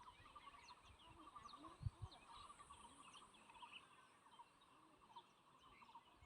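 Faint chorus of small birds chirping and trilling, many short calls overlapping, with low bumps of wind on the microphone, the strongest about two seconds in.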